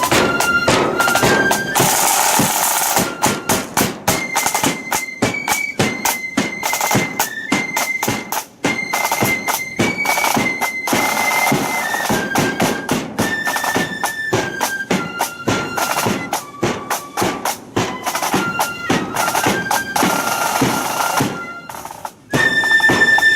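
Marching flute band playing: shrill flutes carrying the melody over frequent snare and bass drum beats. The music breaks off briefly near the end and starts again.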